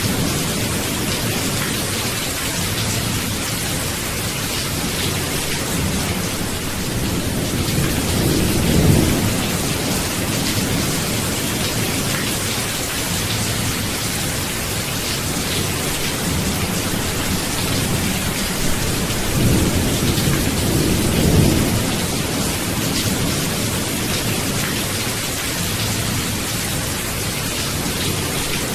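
Steady heavy rain hissing, with low rolling thunder that swells about a third of the way in and again a little past two-thirds.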